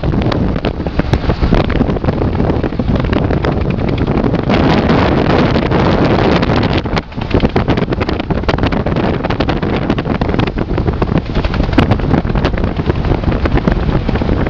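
Wind buffeting the microphone over the road noise of a moving car, with a brief drop about seven seconds in.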